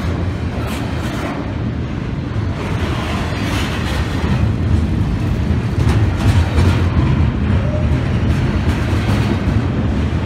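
Double-stack intermodal freight train's loaded well cars rolling past close by: a steady rumble of steel wheels on rail with scattered clanks and knocks, growing a little louder about halfway through.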